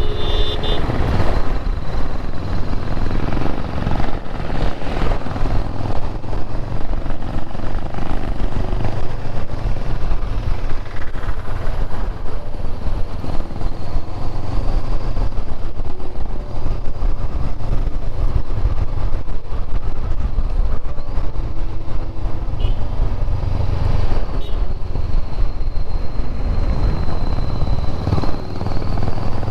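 Honda motorcycle engine running steadily under way, with wind and road noise.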